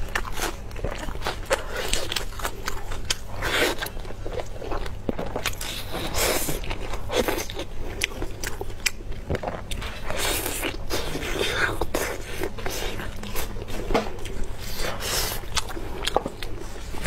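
Close-miked eating sounds: biting and chewing roast chicken, a dense run of short clicks and wet mouth noises, with gloved hands tearing the meat apart.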